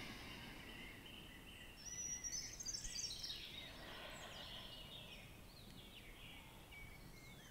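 Faint birdsong of chirps and short trills, with a quick run of falling notes about two to four seconds in, over a soft background hiss.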